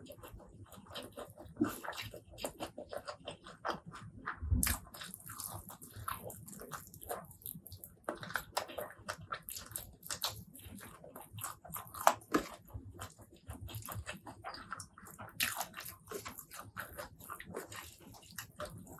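Close-miked eating: wet chewing, biting and crunching of food in quick irregular smacks and clicks, with a low thump about four and a half seconds in.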